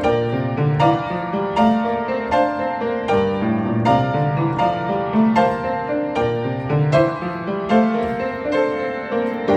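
Solo piano music on a hundred-year-old upright piano, a little out of tune, playing a slow, even minimalist pattern with a new note or chord struck about every second over sustained bass notes.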